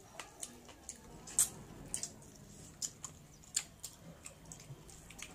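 Close-up eating sounds: irregular wet mouth clicks and smacks of chewing, with a sharper smack about a second and a half in.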